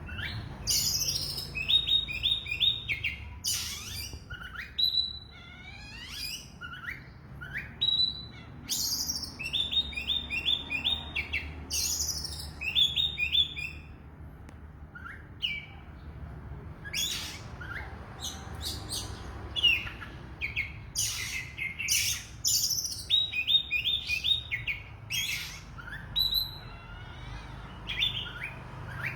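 Oriental magpie-robin singing phrase after phrase: clear whistles and quick runs of repeated high notes, with a couple of short pauses between bursts of song.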